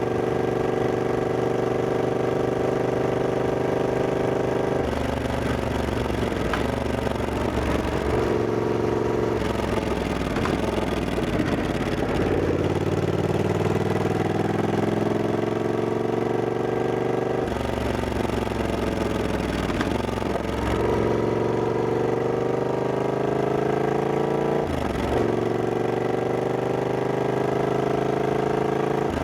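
Triumph Scrambler 1200X's 1200 cc parallel-twin engine running under way, its pitch climbing as it pulls and dropping back at each gear change, several times over.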